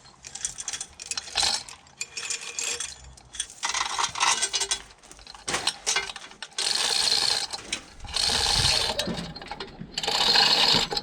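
Hand-operated lifting gear being worked to raise a heavy engine part: metal clicking and clanking, then a run of rasping ratchet strokes about a second long each, repeated with short pauses.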